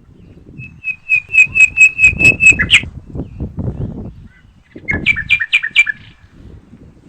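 A songbird sings two phrases of quick repeated notes. The first is a run of about nine notes at some four a second, ending on a downward slur. The second, a few seconds later, is a shorter run of about five notes on two alternating pitches. Underneath, wind buffets the microphone with an uneven low rumble, loudest around the end of the first phrase.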